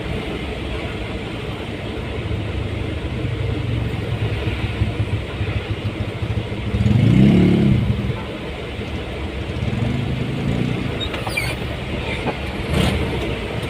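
Road traffic: steady vehicle engine and road noise, with one engine growing louder for about a second around seven seconds in, and a few short clicks near the end.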